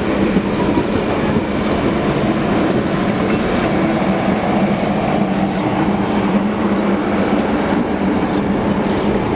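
Train moving on the rails: a steady, loud rumble with a low hum. From about three seconds in, many light, quick clicks come in over it.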